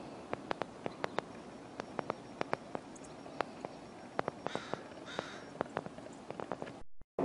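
Scattered sharp ticks and clicks at irregular intervals, with two short harsh bird calls a little past the middle; the sound cuts off abruptly just before the end.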